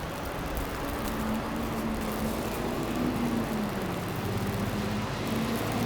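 City street ambience with a motor vehicle's engine humming as it passes or idles.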